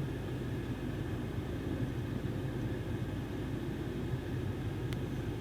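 Range Rover Evoque's 2.0-litre turbocharged four-cylinder idling, a steady low hum heard inside the cabin, with a faint click about five seconds in.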